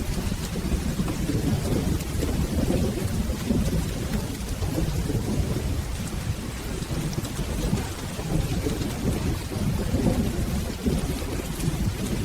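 Rain falling with a low, steady rumble of rolling thunder underneath.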